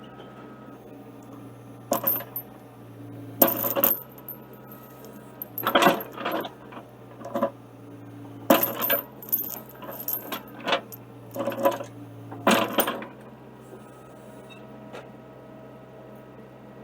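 Excavator engine running steadily, with a string of sharp metallic clanks and rattles from about two seconds in until about thirteen seconds in: a steel chain knocking against metal as the iron rod is pulled.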